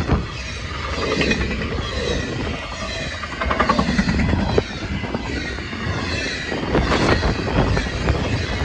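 A freight train's intermodal cars, double-stack containers and highway trailers, passing at speed: a steady loud rush with quick irregular clicking and clatter of steel wheels on the rails.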